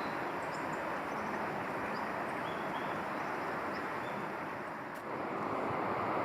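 Outdoor ambience of a steady rushing noise, with several faint, short, high chirps from small birds over the first four seconds. About five seconds in there is a click, and the rushing noise grows louder.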